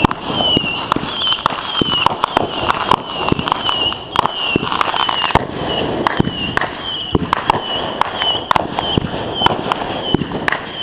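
Consumer fireworks going off: a dense run of sharp, irregular bangs and crackles. Through it a short high chirp repeats steadily about twice a second.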